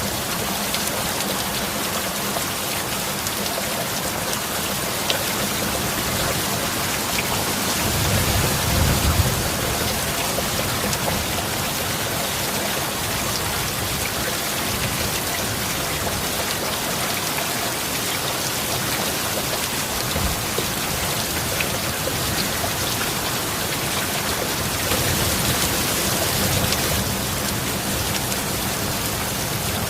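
Heavy rain falling steadily, with a low rumble of thunder swelling twice, about a third of the way in and again near the end.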